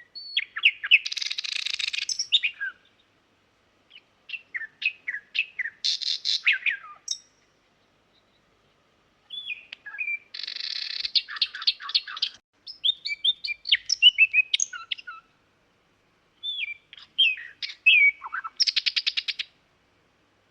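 Nightingale singing: four separate phrases of quick whistled notes and fast rattling trills, with pauses of a second or two between them.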